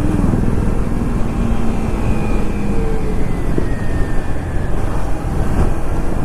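Kawasaki Ninja 300's parallel-twin engine running on the move, heavily buffeted by wind rumble on the rider's microphone. Faint engine tones slide slowly down in pitch about two to four seconds in.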